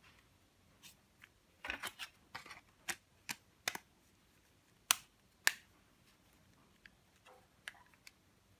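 A series of sharp small clicks and taps, irregular, about a dozen in all, the two loudest about five seconds in and half a second apart.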